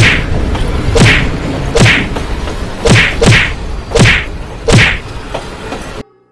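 A series of heavy thud sound effects, about one a second, each with a quick drop in pitch. They play over a steady rushing noise that cuts off abruptly near the end.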